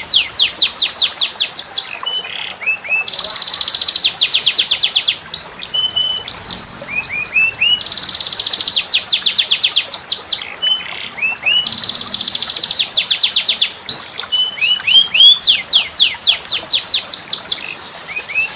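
Songbird song on a masteran training recording: rapid runs of sharp downward-swept whistles alternating with dense buzzing trills, the same phrase sequence repeating about every four and a half seconds. It cuts off abruptly at the end.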